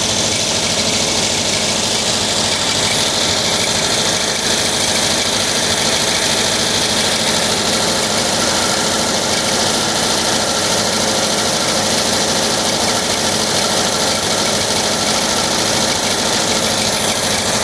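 1979 Volkswagen Type 2's 2-liter fuel-injected flat-four engine running steadily, with a clanking like two glass bottles banging together. The owner suspects the cooling fan, refitted out of its original position, is tapping against the magnesium fan housing.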